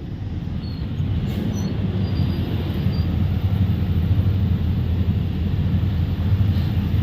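Heavily loaded truck's diesel engine pulling slowly uphill, heard from inside the cab as a steady low drone that grows a little louder about a second in.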